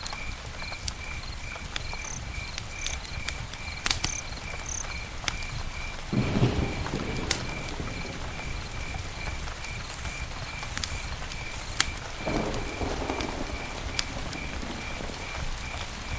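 Campfire crackling, with sharp pops scattered throughout and two brief swells of deeper rushing noise about six and twelve seconds in. A cricket chirps steadily behind it, about four pulses a second.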